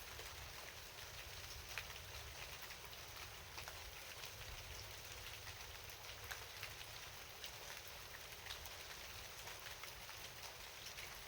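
Rain falling steadily: a soft hiss full of many small, separate drop ticks, over a low rumble.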